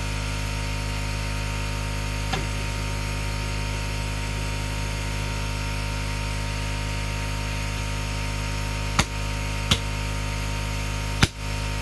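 Steady hiss of air and propane flowing through a small propane burner's combustion chamber running a tiny, finely tuned flame, over a low hum. There is a faint click about two seconds in and three sharp clicks near the end.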